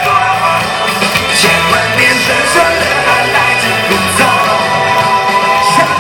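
Live pop-rock band playing loudly, with a voice singing over it and a long held note in the second half.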